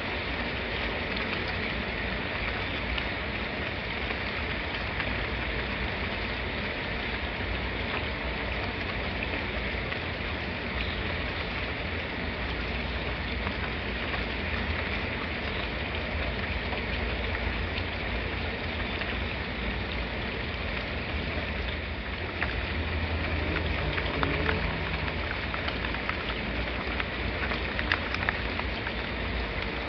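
Steady rain falling, with the fine ticking of individual drops on hard surfaces over an even hiss. A faint low rumble swells briefly about two-thirds of the way through.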